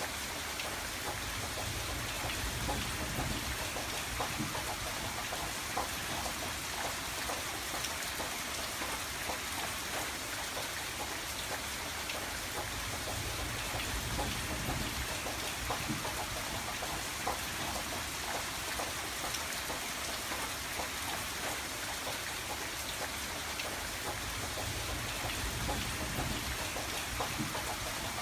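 Steady rain pattering on a window, with many small drop ticks over a continuous hiss and a low rumble underneath.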